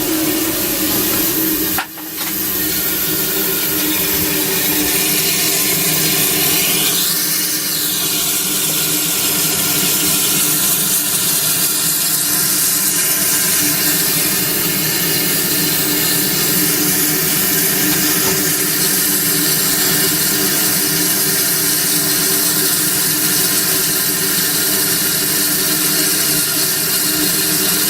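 Steady loud hiss of steam in the cab of an ALCO 2-8-0 steam locomotive, with a short break about two seconds in.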